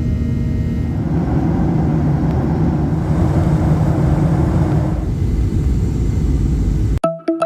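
Steady loud rumble of a moving vehicle. It cuts off abruptly about seven seconds in, and electronic music starts.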